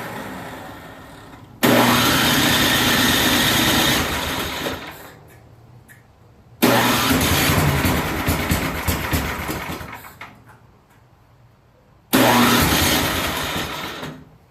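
Craftsman snowblower engine being cranked over on its 120-volt electric starter with the choke on, three separate start attempts, each starting abruptly and dying away after a few seconds without the engine staying running.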